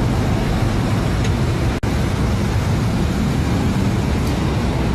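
Steady road and engine noise of a car on the move, with a brief dropout in the sound about two seconds in.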